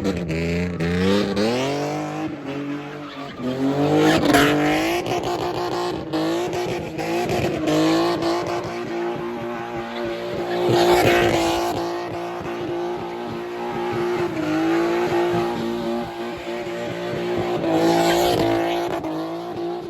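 Car doing donuts: the engine revs up in the first few seconds and is then held at high revs, with tyres squealing. The sound swells about every seven seconds as the car circles round.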